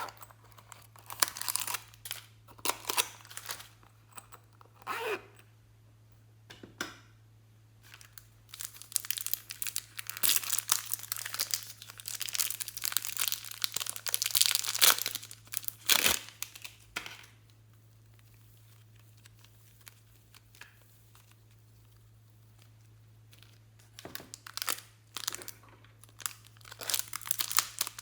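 Slime being squished, stretched and folded by hand, with sticky crackling and popping in irregular bursts. It pauses for several seconds past the middle, then starts again near the end.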